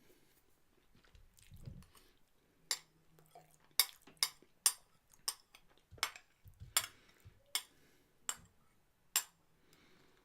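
Eating at the table: a quiet stretch with a soft thud, then a series of about a dozen sharp clicks and clinks of food and dishes being handled, spaced irregularly, with the loudest ones near the middle.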